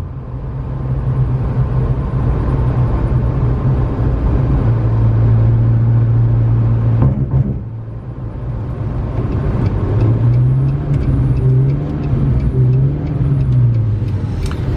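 McLaren 650S Spyder's twin-turbo V8 running under way. Its note dips briefly about halfway through, then climbs and falls several times in the second half as the revs change.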